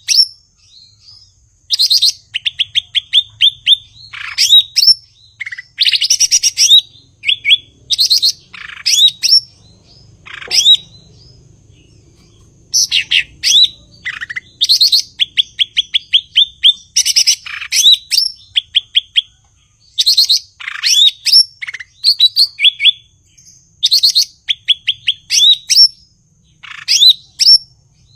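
Cucak ijo (green leafbird) singing in full song: loud phrases of rapid repeated chirps and sharp whistled notes, broken by short pauses, with a longer lull about ten seconds in.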